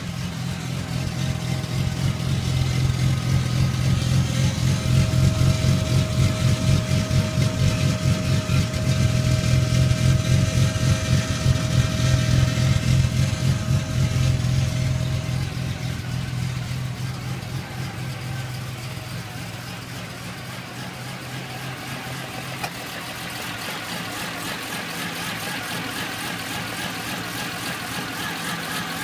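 Nissan Skyline GT-R (PGC10) S20 twin-cam straight-six running, with a strong, even low pulse. It runs louder through the first half, then settles quieter after about sixteen seconds.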